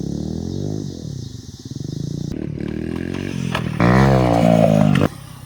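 Small gas pit bike engine revving up and down in short bursts, hardest about four seconds in, then stopping suddenly.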